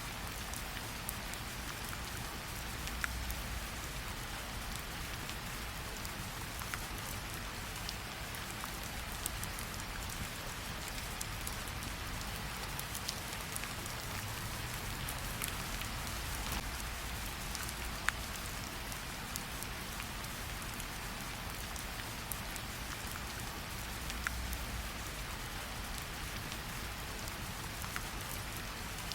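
Steady rain with scattered sharp crackles from a wood fire, and a soft low rumble that swells twice.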